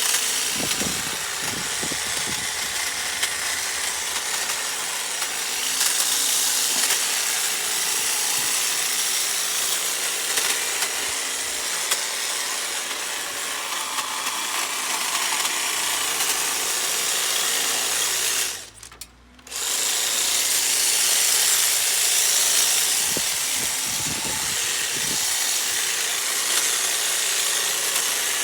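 Handheld power tool running steadily under load, stopping briefly about two-thirds of the way through before running on.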